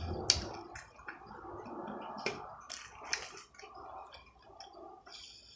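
Close-miked chewing and eating, with wet mouth smacks and several sharp clicks scattered through the seconds.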